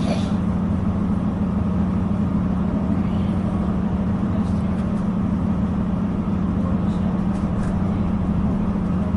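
Diesel multiple-unit passenger train running along the line, a steady low hum and rumble with faint clicks now and then.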